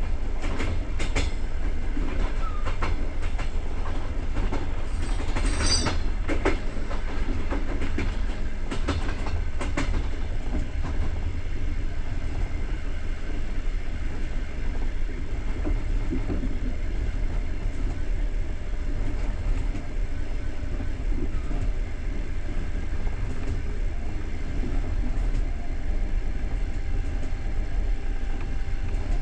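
Passenger train carriage running along the line: a steady low rumble of wheels on rails, with clicks over the rail joints in the first ten seconds and a brief high-pitched squeal about six seconds in.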